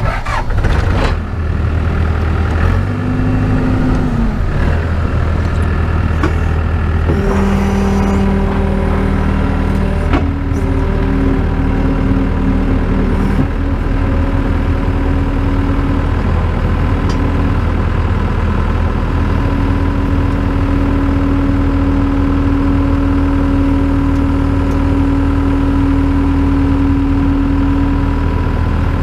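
Skid steer engine coming up to speed and running steadily, with a steady humming tone that appears, drops out and shifts pitch several times as the loader's hydraulics are worked to push on the tractor tyre's bead.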